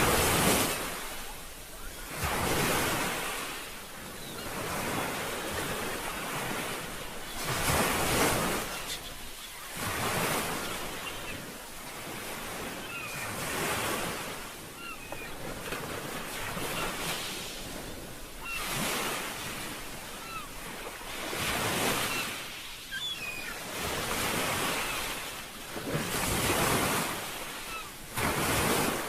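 Ocean waves washing in, a swell of surf noise every two to three seconds, with faint short high chirps over it.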